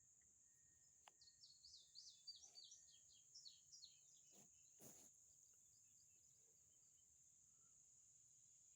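Faint outdoor ambience: a songbird sings a quick run of high chirping notes for about three seconds, over a steady high insect drone. Two sharp clicks come about halfway through.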